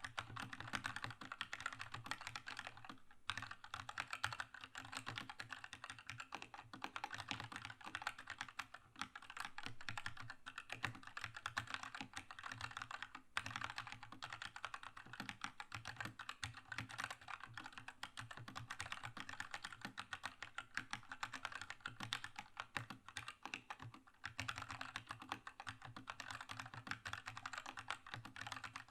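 Steady typing on a Keychron K2 mechanical keyboard with red linear switches: fast, irregular keystroke clacks with brief pauses, about 3, 13 and 24 seconds in.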